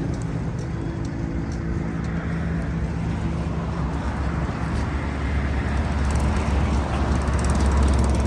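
A motor vehicle engine running on the street: a steady hum at first, giving way to a deeper rumble that grows louder near the end.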